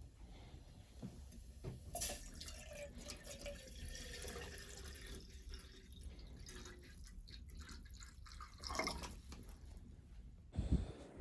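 Water running and dripping, with a dull knock near the end.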